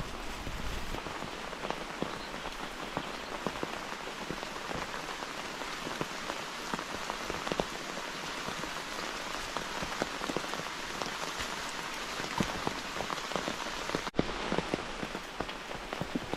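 Steady rain falling, with many individual drops tapping close by; the sound breaks off for an instant about fourteen seconds in.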